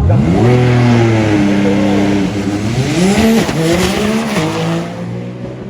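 Drag race car launching and accelerating down the strip at full throttle, its engine pitch sweeping up sharply at the start, then dropping and climbing again at each gear change, fading as the car pulls away.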